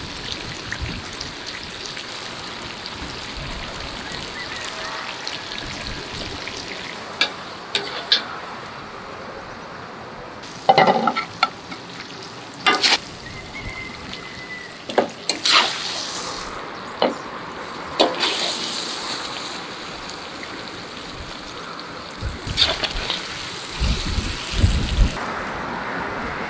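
Poultry pieces frying in oil in a cast-iron cauldron, a steady sizzling hiss. A metal skimmer knocks and scrapes repeatedly against the pot and a serving plate as the pieces are lifted out.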